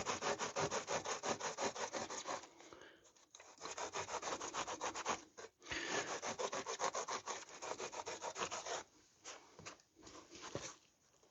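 A hand tool scraping and shaping the soft foam of a motorcycle seat in fast, even strokes. The work pauses briefly twice and turns quieter and sparser near the end.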